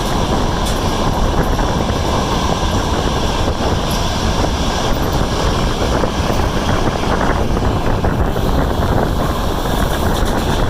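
Train running along the track: a loud, steady rumble of wheels on rail, without a clear clickety-clack beat.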